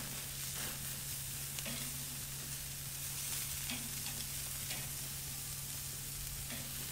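Kielbasa sausages sizzling on a charcoal kettle grill's grate: a steady hiss with scattered small pops. A steady low hum runs underneath.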